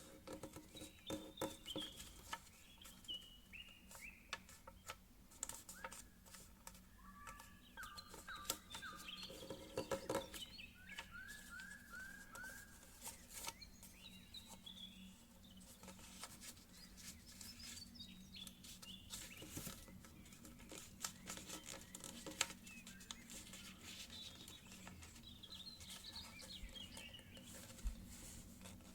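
Paper being handled, folded and creased, giving faint scattered crinkles and clicks. Birds sing in the background in repeated short series of whistled notes.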